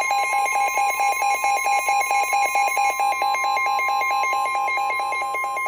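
Weather radio alert: the long, steady NOAA Weather Radio warning alarm tone, with a rapid pulsing alarm beeping over it several times a second. It signals that a new severe thunderstorm warning is about to be read.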